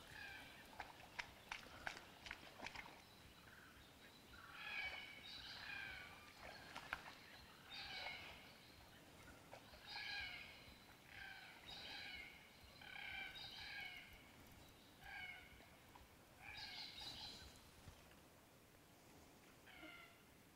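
A bird calling in the swamp: short, high-pitched calls repeated about once a second for some thirteen seconds, after a few sharp clicks at the start.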